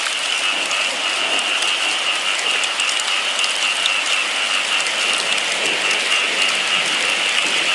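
Steady rain falling, an even hiss with small pattering drops, and a steady high-pitched tone running through it.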